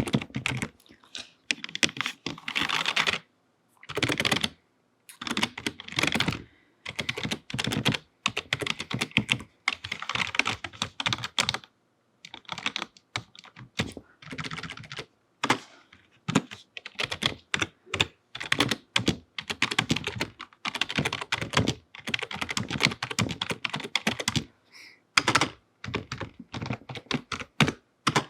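Quick typing on a computer keyboard with long fingernails: runs of rapid key clicks lasting a second or two, broken by brief pauses.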